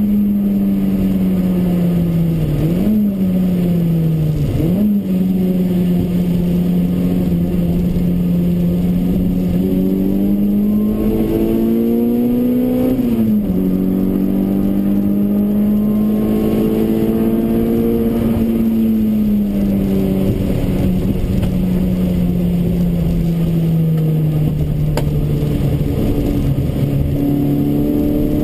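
Toyota Corolla AE93's 4A-GE 20-valve four-cylinder engine under hard track driving, heard from inside the cabin. The note jumps abruptly about 3 and 5 seconds in as gears are changed, climbs steadily to a sudden drop at a shift around 13 seconds, then falls gradually as the car slows.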